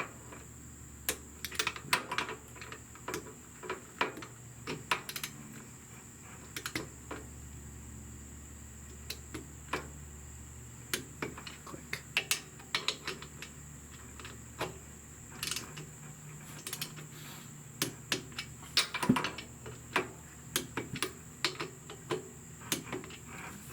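Irregular clicks and metallic clacks of hand tools: a click-type torque wrench being adjusted and worked on the motorcycle's rear brake caliper bolts, with a faint steady high whine underneath.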